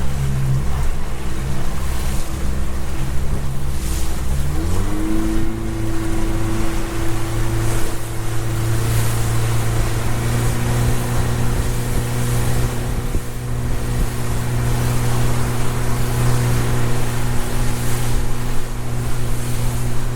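Motorboat engine running under way and speeding up about four to five seconds in, then holding steady at the higher pitch, with wind and water rushing in rough seas.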